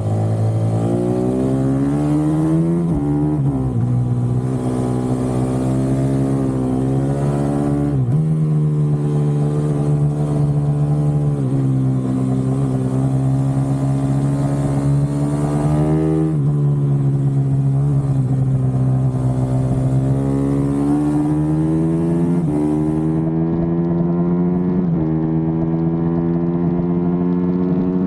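Supermoto motorcycle engine running hard around a track. Its pitch holds high and climbs, then dips sharply at each shift or corner, several times over.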